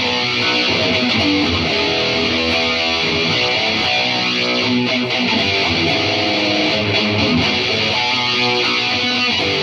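Electric guitar played through an Atomic AmpliFire modeling pedal and heard through cheap computer speakers, noodling a quick run of changing single notes and chords over a steady hiss, picked up by a phone's microphone.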